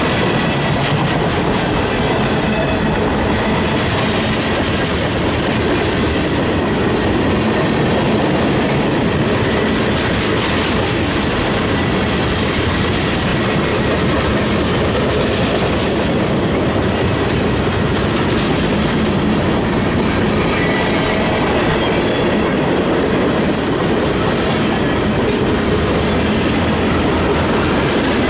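Freight train cars rolling past, their steel wheels clattering steadily over the rail joints.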